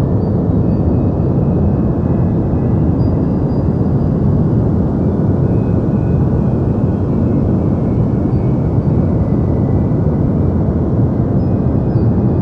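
Deep white noise for sleep: an even, unbroken rush weighted toward the low end, a steady low rumble with little hiss above it.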